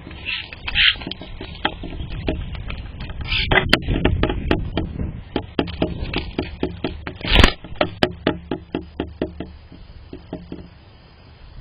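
Rapid, irregular tapping and scraping close to the microphone, a few taps a second, over a low rumble, with a louder knock about seven seconds in.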